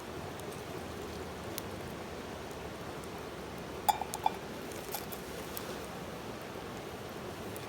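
A few light clinks of coffee-making gear, two of them ringing briefly, about halfway through, over a steady hiss.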